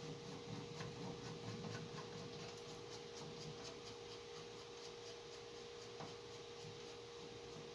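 Faint rubbing and a few light clicks of parts being handled and fitted by hand, over a steady hum.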